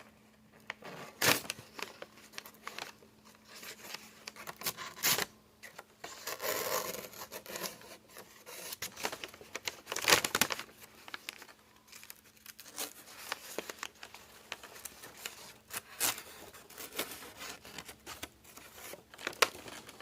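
Packing paper being cut with a knife blade, tearing and crinkling in irregular strokes, the loudest about ten seconds in. The edge is still too dull to slice cleanly, so the paper mostly tears.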